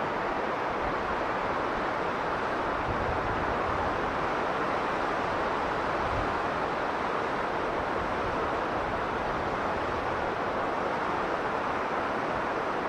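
Strong blizzard wind blowing steadily, an even rushing noise with no gusts or breaks.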